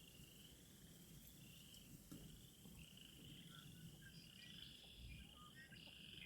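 Faint, steady high-pitched trilling chorus in the background of a spring wetland, with scattered short chirps and a low wind rumble.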